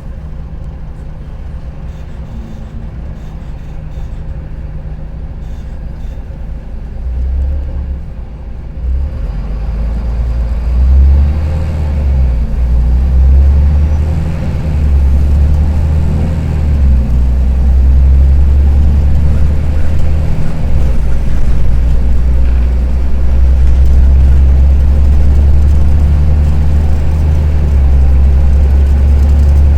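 Karsan Avancity+ articulated city bus's engine running, fairly quiet for the first several seconds, then growing into a loud, steady low drone from about eight seconds in as it comes under load and stays there. The engine has the rattly sound the title names it for.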